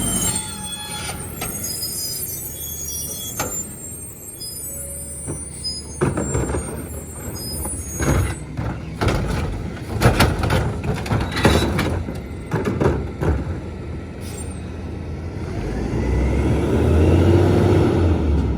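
Mack MRU rear-load garbage truck with a McNeilus body working a pickup: high brake squeals at the start, a run of clattering knocks in the middle, then the diesel engine rises in a loud low rumble near the end.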